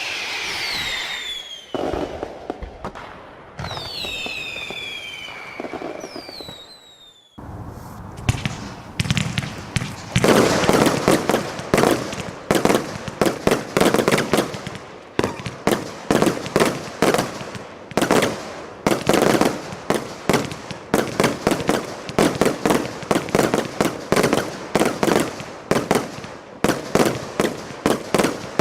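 Zeus Fireworks 'Legend' 135-shot compound barrage cake firing: first several whistles that fall in pitch, then from about seven seconds in a dense, rapid run of shots and bursting reports, several a second, that goes on to the end.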